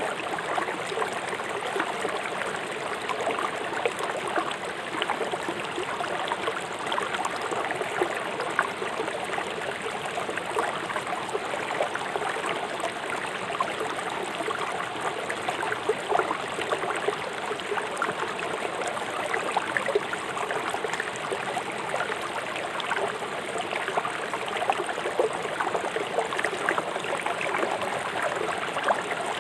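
Swift river water rushing over and around rocks: a steady rush of water full of small splashes and gurgles.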